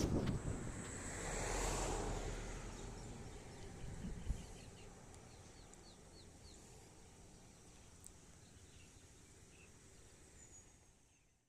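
Faint outdoor ambience with a swell of rushing noise about two seconds in, then a quick run of short bird chirps, after which it drops to near silence.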